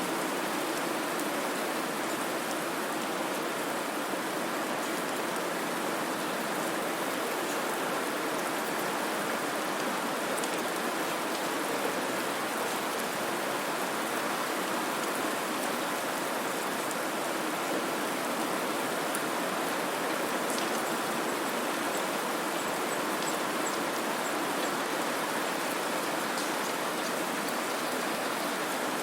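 Steady white noise: an even, unchanging hiss with a few faint scattered ticks.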